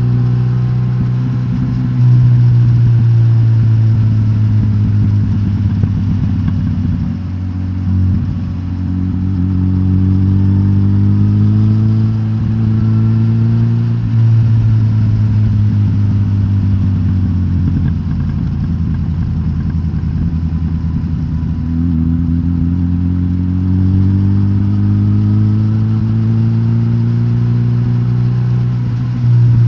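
Suzuki GSX-S1000GT's K5-derived inline-four engine, decatted and running through the stock exhaust, pulling steadily, its note rising and falling several times over the stretch.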